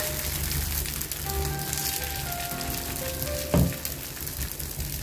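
Dosa batter sizzling on a hot dosa griddle (tawa) as it is spread with a ladle, under background music with a pulsing bass. A single low thump about three and a half seconds in.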